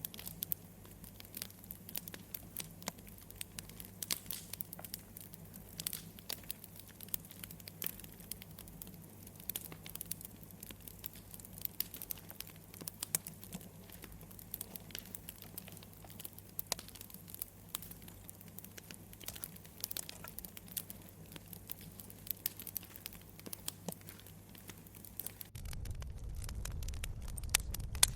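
Campfire crackling: a steady scatter of sharp pops and snaps from burning wood over a low hum, with a low rumble coming up near the end.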